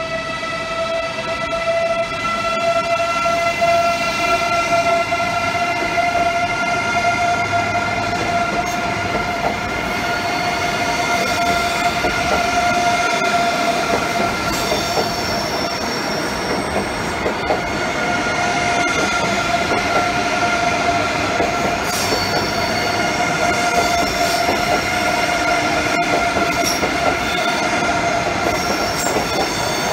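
Eurostar Class 374 (e320) high-speed train pulling away at low speed, its traction motors giving a steady whine that rises slowly in pitch as it gathers speed. Higher wheel squeals come and go in the second half as the coaches run past.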